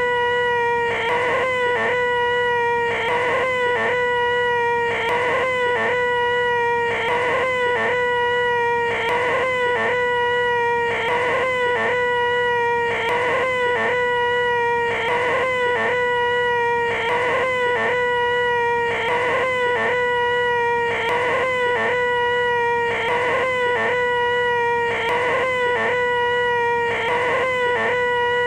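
A man's voice making the 'most annoying sound in the world': a loud, nasal, high-pitched whine held on one steady pitch, repeated as a loop with a small hitch about once a second.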